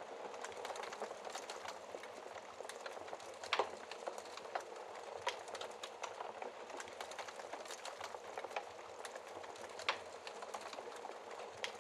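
Wood fire crackling in a fireplace: a steady hiss of burning logs with many small crackles and two louder pops, one about a third of the way in and another near the end.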